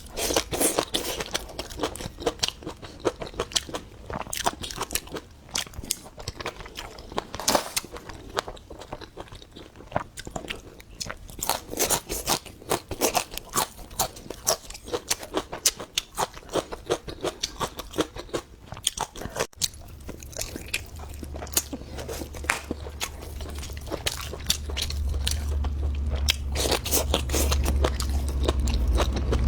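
Close-miked chewing and crunching of crisp pickled radish strips, many quick sharp crunches in irregular bursts. A low hum comes in about twenty seconds in and grows louder near the end.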